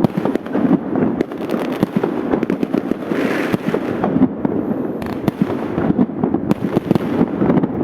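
Fireworks going off: a dense, continuous run of rapid bangs and crackles with no pause.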